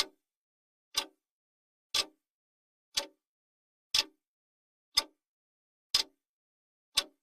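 Clock ticking once a second, each tick a short sharp click with silence between: the running sound of a countdown timer.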